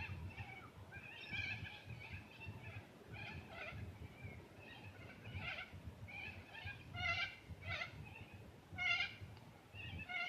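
Birds calling: a run of short, harsh calls repeated in quick groups, loudest around seven and nine seconds in, over a low rumble.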